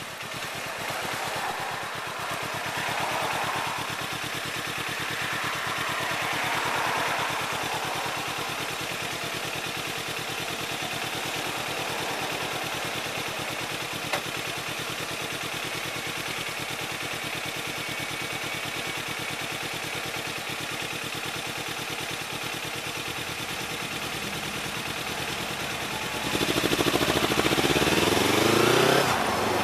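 Kawasaki Ninja 300's parallel-twin engine idling steadily, picked up through the fuel tank the camera is bolted to. Near the end it revs up as the bike pulls away, the revs dipping once.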